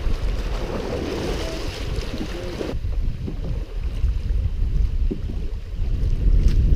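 Wind rumbling on the microphone over the rush of river water around a canoe; the higher hiss of the water drops away suddenly about three seconds in.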